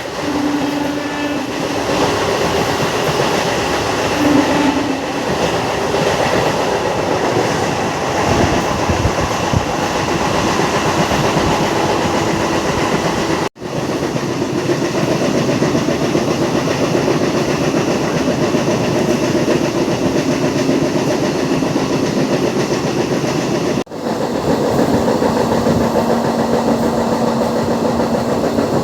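MEMU electric multiple-unit train running along the line: a steady rumble and rattle of wheels on rail, with clickety-clack over the rail joints.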